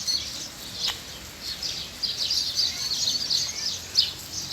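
Small birds chirping busily, many short high calls overlapping.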